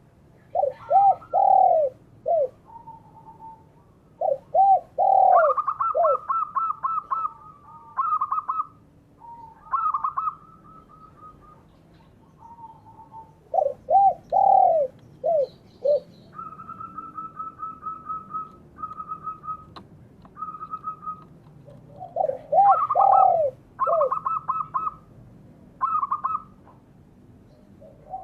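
Spotted doves and zebra doves cooing. Phrases of loud, arched coo notes alternate with quicker runs of short, higher notes, with pauses between phrases.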